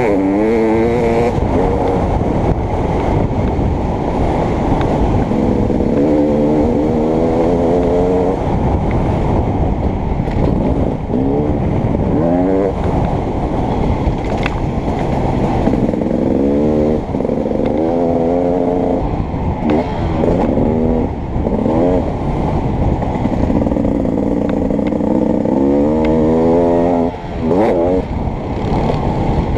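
Beta 300RX two-stroke motocross engine ridden hard, its pitch repeatedly climbing as the throttle is opened and dropping back between pulls.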